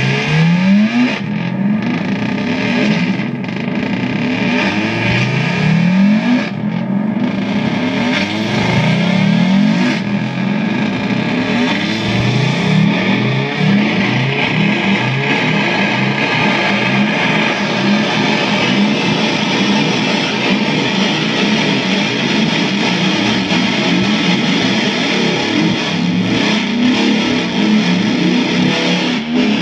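Effects pedals chained in a feedback loop and self-oscillating: a dense, distorted wash of noise with repeated rising pitch sweeps, mostly in the first half.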